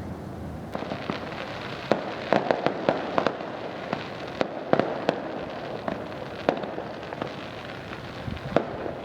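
Fireworks going off: a crackling hiss with a rapid, irregular series of sharp bangs and pops, starting about a second in.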